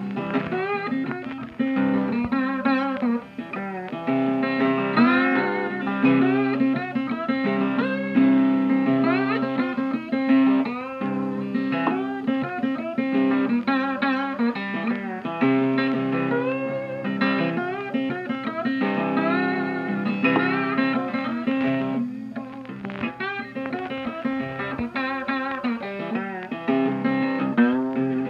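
Guitar music: plucked and bent guitar notes over a steady bass line, in a bluesy style.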